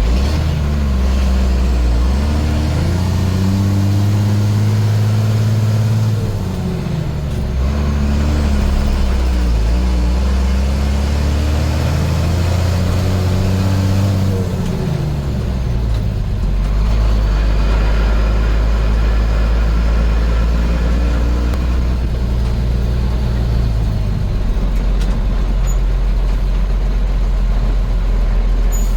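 1987 International S1900 dump truck's DT466 inline-six turbo diesel pulling under way. Its engine note climbs and drops several times as it goes up through the gears, then settles lower and steadier after about sixteen seconds.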